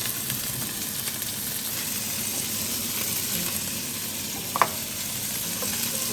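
Food sizzling steadily in a hot frying pan, with one short sharp click about four and a half seconds in.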